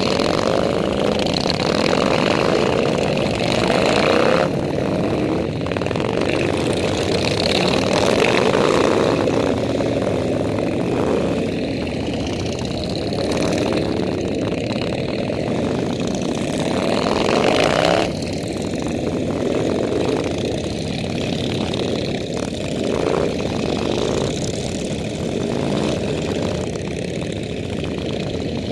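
Motorcycle engines running steadily, a dense low engine noise. The upper part of the sound drops away about eighteen seconds in.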